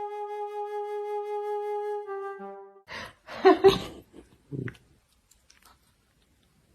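A single flute-like note, held steady for about two seconds and then cut off. About a second later comes a short, loud noisy burst with two sharp peaks, then a smaller thud-like sound and quiet.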